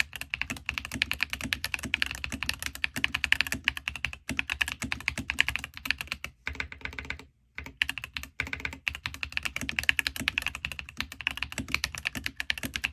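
Fast typing on a mechanical keyboard with Ajazz banana switches: a dense run of quick key clicks, pausing briefly about halfway through, then resuming.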